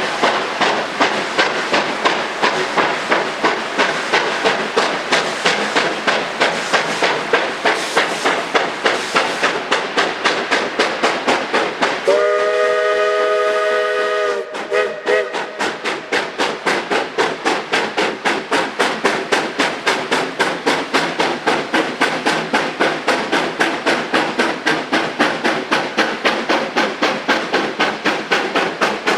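Narrow-gauge steam locomotive No. 40 working, its exhaust chuffing in a steady rhythm of several beats a second. Midway its chime whistle sounds one long blast of about two and a half seconds, then a short toot.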